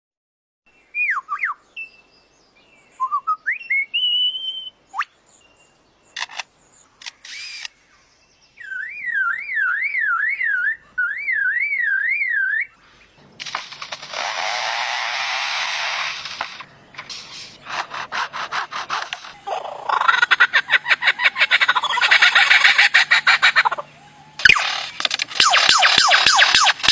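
A mimicking bird running through a string of imitations: whistled rising and falling calls, then a fast up-and-down warble like an alarm, then long harsh hissing stretches, and rapid clicking near the end.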